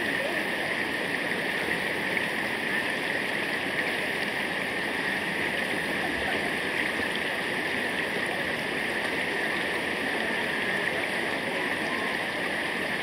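Steady rush of running river water, even and unbroken throughout.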